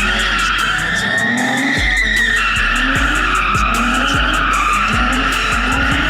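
Car tyres squealing long and steady as a car drifts, the pitch shifting about two seconds in, with the engine revving repeatedly. A music track with a deep bass beat plays underneath.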